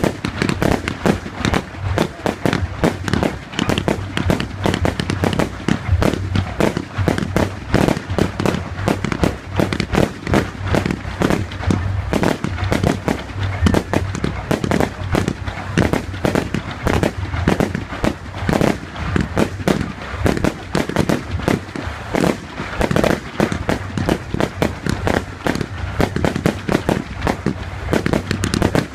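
Fireworks going off in a rapid, continuous barrage: many sharp bangs and crackles a second, packed closely together, with a steady low rumble under them.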